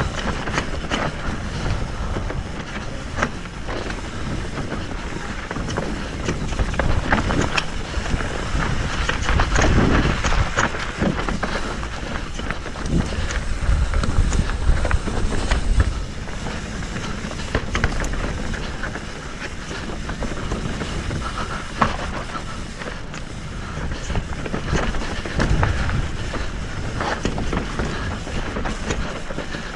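Mountain bike riding over a rough dirt trail: tyres rolling over gravel and rocks, the bike rattling with many small knocks, and wind buffeting the microphone in low rumbling gusts.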